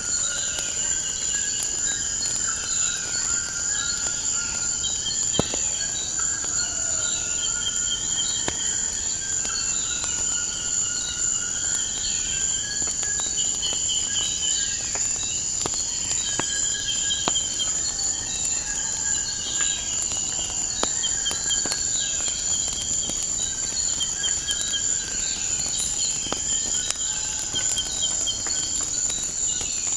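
Steady high-pitched cricket trill with birds chirping and calling over it, and scattered sharp crackles of a wood fire.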